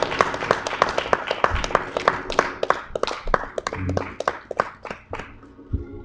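Congregation applauding, many hands clapping, thinning out and dying away about five seconds in.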